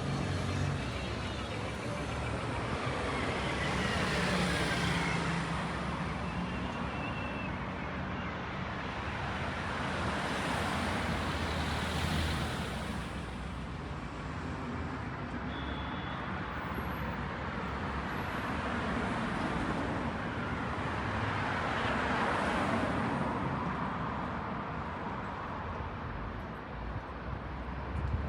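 City street traffic: cars passing one after another, each swelling and fading, over a steady hum of road noise.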